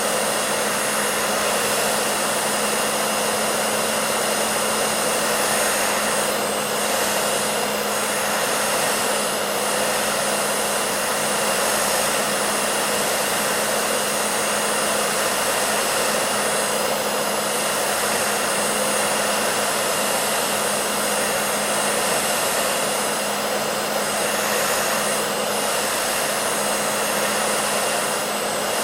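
Hair dryer running steadily: an even airy rush of blown air over a constant motor hum, with no change in speed.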